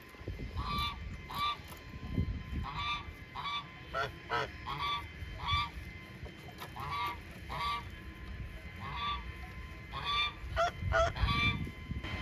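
Farm fowl honking over and over, the short calls mostly in pairs about half a second apart, with a few different wavering calls around four seconds and again near eleven seconds in.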